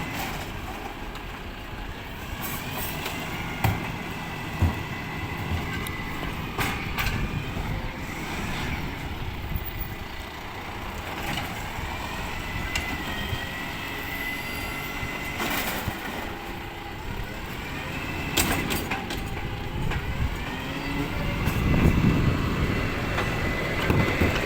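Recycling rubbish truck running: a steady engine rumble with a high squeal that rises and falls, and several sharp knocks. It gets louder near the end.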